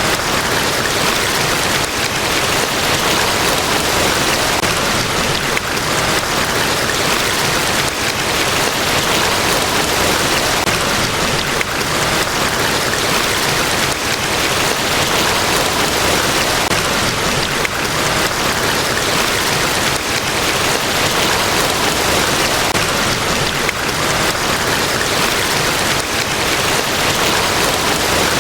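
Steady roar of a large waterfall, falling water as an even, unbroken rush.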